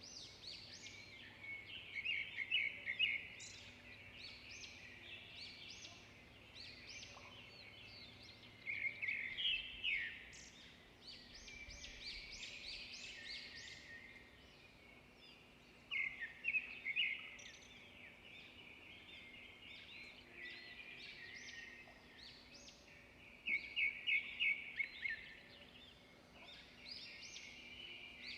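Chorus of songbirds singing steadily. About every seven seconds, four times in all, a louder phrase of rapid repeated notes stands out over the chorus.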